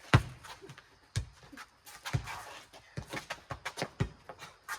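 Rubber four square ball bouncing on concrete and being slapped back by hand in a rally: about seven sharp, irregular thuds.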